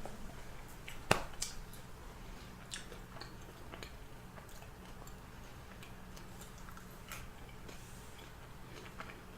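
Close-up chewing and crunching on fried chicken: scattered small crunches and clicks, with one sharper crack about a second in, over a faint steady hum.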